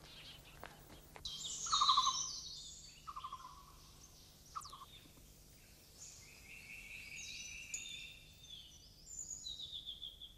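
Small birds calling: a few short, fast-pulsed trills in the first half and high twittering chirps that come and go throughout.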